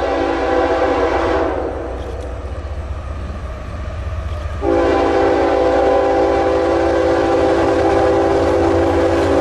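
Locomotive air horn sounding a chord over the low rumble of a train: one blast cuts off about a second and a half in, and after a gap of about three seconds a second long blast starts abruptly and is held.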